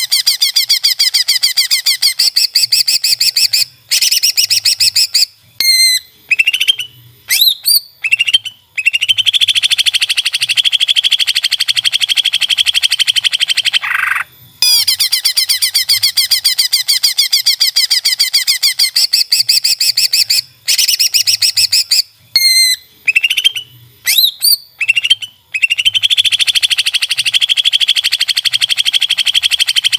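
Cucak ijo (green leafbird) song on a looped masteran tutoring recording: long, rapid, high-pitched trills broken by short gaps with brief rising and falling whistles. The same sequence repeats about every 15 seconds.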